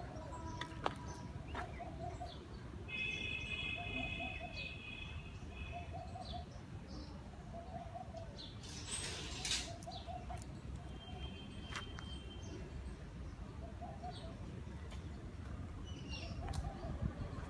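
A bird calling, a short note repeated about once a second, over a low steady rumble.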